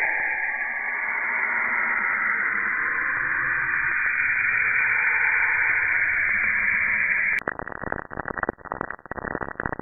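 Saturn's natural radio emissions, recorded by the Cassini spacecraft and shifted into the audible range: a steady, eerie hiss with slowly shifting tones. About seven seconds in, a sharp click cuts it off, and a denser crackling sound follows.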